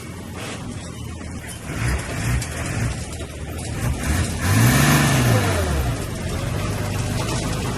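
Heavy-equipment diesel engine running under load, revving up and dropping back once about halfway through, which is the loudest moment.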